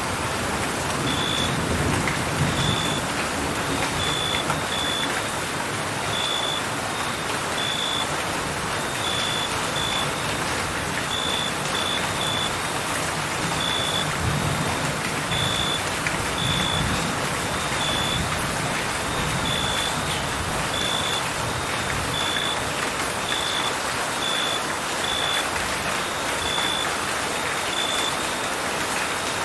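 Steady rain with crickets chirping: short, high, single-pitched chirps repeating roughly once a second, a little irregularly, over the hiss of the rain.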